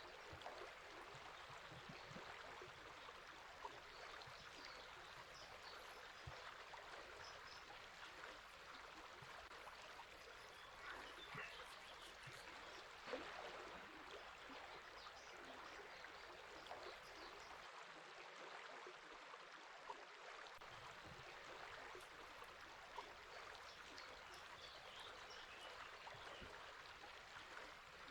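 A river's water running in a faint, steady rush, with a brief louder splash about thirteen seconds in.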